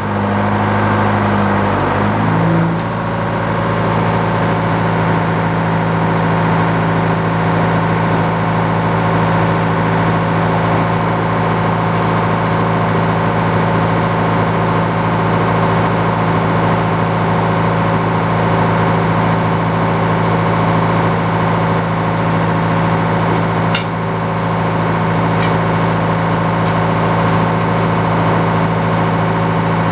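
Engine driving an old Frick circular sawmill, running steadily; its note shifts about two seconds in and then holds.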